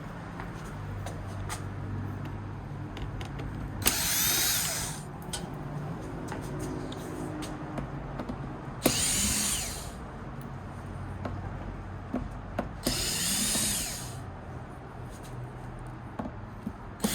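Small electric screwdriver spinning in four short bursts of about a second each, backing out Torx screws, with small clicks of screws and handling in between.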